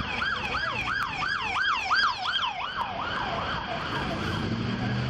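Police car siren in fast yelp mode, a quick rising-and-falling wail repeating about four times a second, loudest in the first half and fading away after about three seconds.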